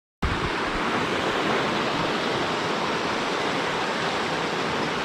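Grey Wolf River rushing in a steady roar of whitewater below the footbridge, cutting in abruptly just after the start.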